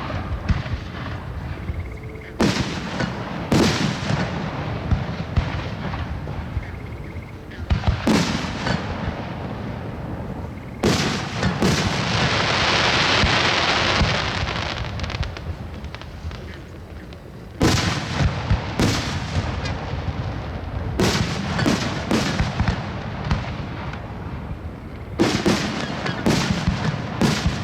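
Fireworks display: aerial shells bursting in clusters of sharp bangs and booms, with a dense hiss lasting about two seconds roughly twelve seconds in.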